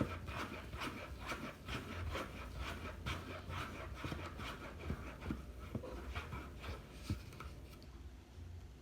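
A cup of homemade slime (shampoo, hair gel and lotion) being stirred. A steady run of irregular soft clicks and rubbing that dies down near the end.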